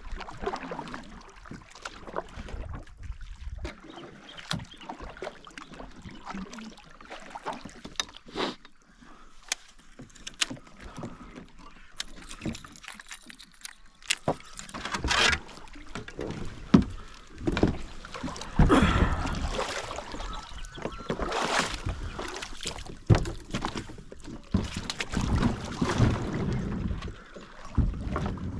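Kayak on the water: scattered knocks and clunks on the hull and short splashes of water, growing busier and louder after about halfway.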